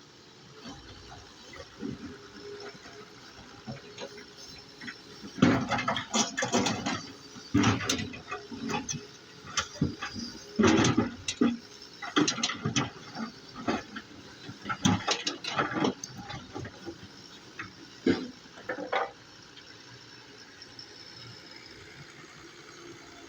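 Doosan DX140 excavator at work: a run of irregular, loud scraping and clattering bursts through the middle, over a low steady background.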